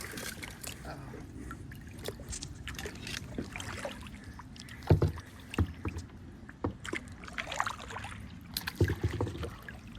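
Kayak paddling: paddle strokes in the water with splashing and dripping, and a few knocks against the kayak, the loudest about five seconds in.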